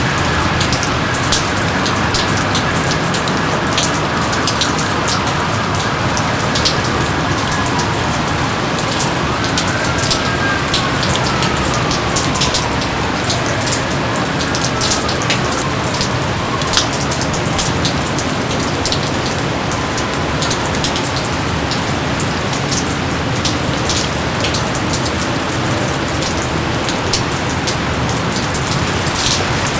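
Steady heavy rain falling in a jungle, a constant hiss with many individual drops ticking sharply. A few faint falling whistles sound in the first half.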